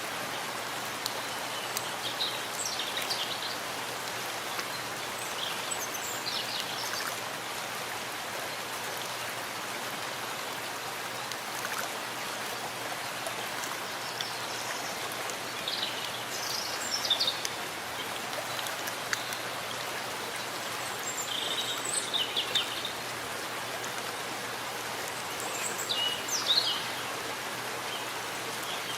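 Steady rain falling in a forest, an even hiss of drops. Short bird calls sound a few times, the loudest about halfway through and near the end.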